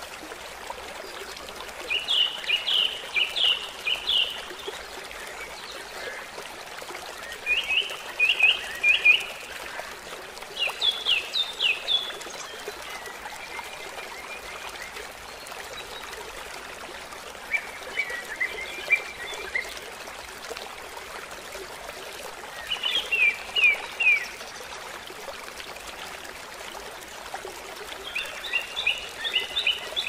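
A songbird singing short phrases of quick repeated notes, about six phrases a few seconds apart, over a steady rushing background.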